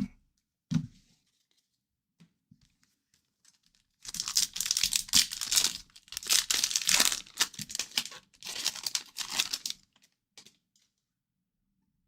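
An O-Pee-Chee hockey card pack wrapper being torn open and crinkled, in three stretches of tearing and crinkling starting a few seconds in.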